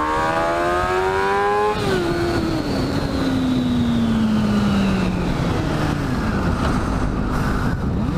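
600 cc sportbike engine accelerating hard, its pitch climbing in gear. About two seconds in the throttle is rolled off and the revs fall away steadily as the bike slows, under a steady rush of noise.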